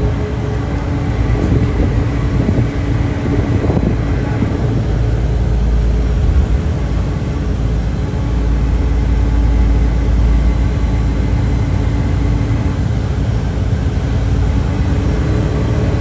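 Car ferry's diesel engines running with a steady low drone and a faint high steady whine.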